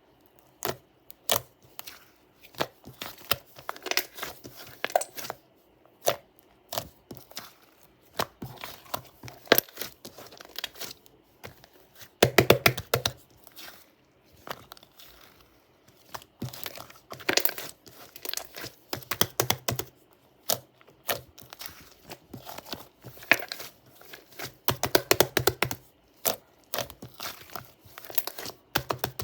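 Fluffy white shaving-foam slime being squeezed and stretched by hand, giving irregular crackling and popping in quick clusters of snaps with short pauses between.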